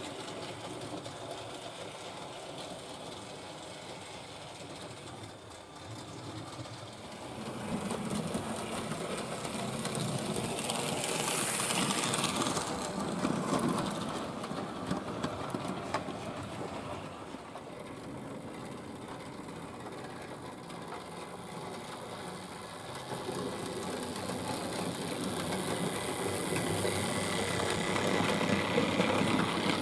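Hornby Dublo 3-rail model tank locomotive running on the track: an electric motor whirring with wheels rattling over the rails, swelling louder twice as it passes close, about a third of the way in and again near the end.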